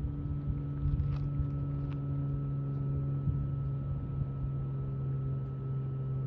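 A steady low mechanical hum, like a distant engine running, with a few faint higher overtones over a low rumble.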